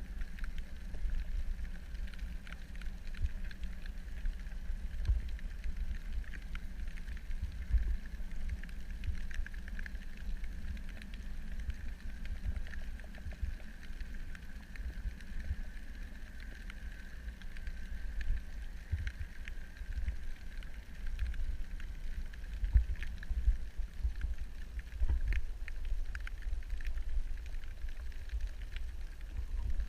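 Underwater ambience picked up through a camera in its housing: a steady low rumble with irregular dull thumps, a faint steady hum higher up, and scattered faint ticks.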